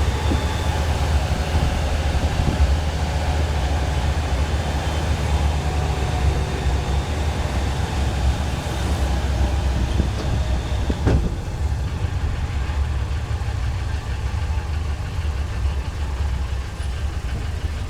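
Tourist train's engine running steadily with a low rumble, and a single faint click about two-thirds of the way through.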